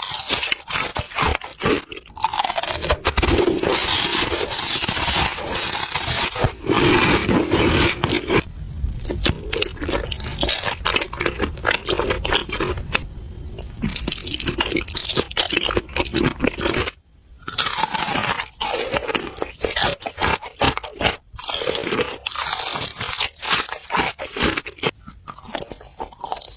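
Close-miked food chewing with steady crunching and crackling bites, dipping briefly about two-thirds of the way through before the chewing resumes.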